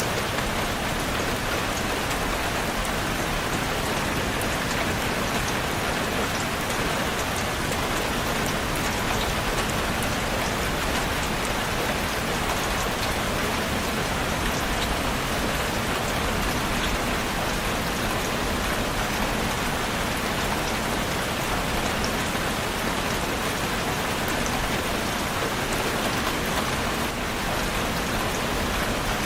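Steady rainfall: a dense, even hiss of rain with many fine drops pattering on a surface.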